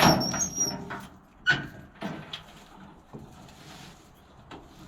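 A loud knock with a high squeak, a second sharp knock about a second and a half in, then a few lighter knocks: clunks and a squeak from equipment being pushed and set down.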